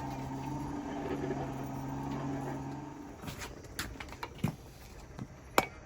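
A steady low hum that stops about halfway through, then a few scattered knocks, and near the end a hammer starts striking a small hot steel knife blank on an anvil, each blow ringing.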